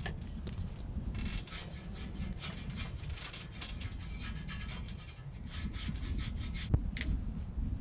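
Irregular scraping or rubbing strokes from hand work, over a steady low rumble, with a sharp knock about seven seconds in.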